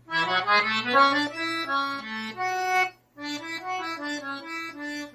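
Piano accordion (sanfona) playing a quick, scale-based melody line in E over a held low note, with a brief break about three seconds in before the phrase carries on.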